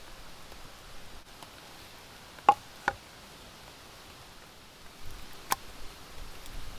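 A few sharp clicks or light knocks, two close together a little before halfway and one more about two-thirds of the way through, against a faint steady background hiss.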